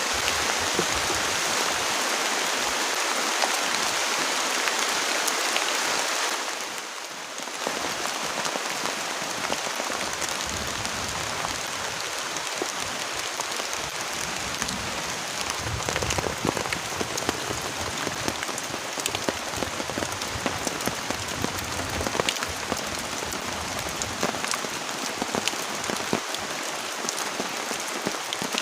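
Heavy rain falling steadily, a dense hiss of rain with scattered sharper drop impacts. The rain briefly goes quieter about seven seconds in.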